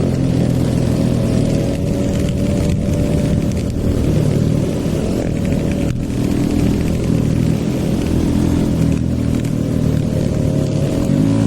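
Hero Eco 150 motorcycle's single-cylinder engine, on a stage 2 tune, running at a fairly steady speed while riding, with wind rush over it. Its pitch climbs near the end as it accelerates.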